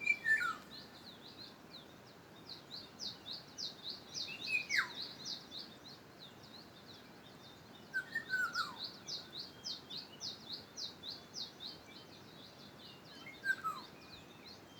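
Birds calling: runs of rapid, high chirps, several a second, with a different, lower call that slides down in pitch four times, every four seconds or so.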